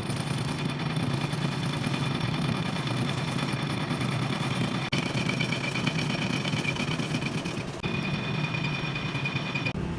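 Metal lathe running while cutting threads on a truck stub axle, a steady machine hum with a high whine from the cut. It breaks off sharply about five seconds in and again near eight seconds.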